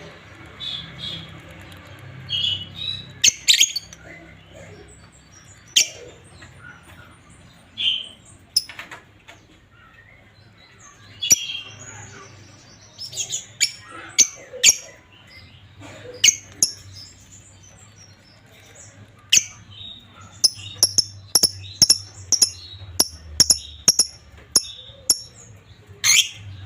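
A pair of lovebirds calling in short, sharp, high chirps and squawks, scattered at first, then a quick run of rapid chirps, about three a second, over the last several seconds.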